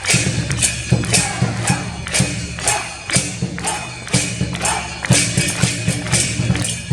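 Festival percussion music: drum beats with bright metal strikes about twice a second in a steady rhythm, typical of the shagiri ensemble that accompanies the Nagasaki Kunchi boat floats.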